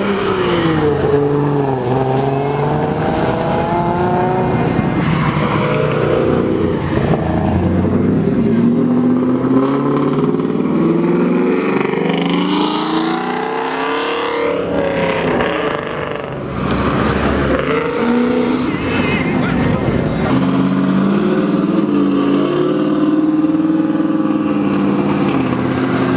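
Performance cars accelerating hard past, one after another: loud engines revving up through the gears with repeated rising and falling pitch, and one especially loud surge about halfway through.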